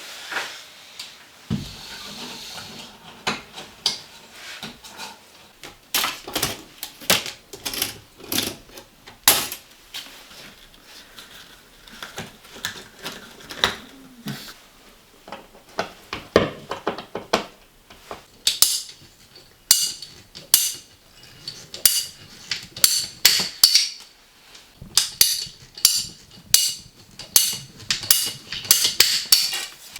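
Irregular metallic clinks and knocks of hand work with tools and hard parts, growing into a quick run of bright, ringing metal clinks about two-thirds of the way in.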